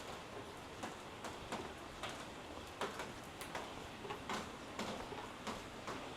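Footsteps striking hard pavement at a walking pace, a sharp click about twice a second, over a low steady background hiss.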